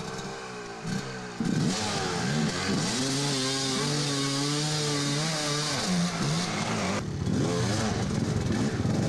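Dirt bike engine revving up and down. It gets louder about a second and a half in and holds a high pitch for a couple of seconds in the middle.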